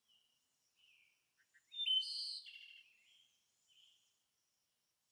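Small songbirds chirping: a few short calls, with the loudest, fullest phrase about two seconds in, and the calls dying away after about four seconds.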